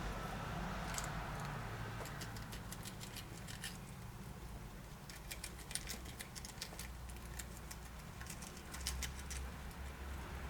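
Guinea pigs munching: rapid crisp chewing clicks in several short bursts, with brief pauses between.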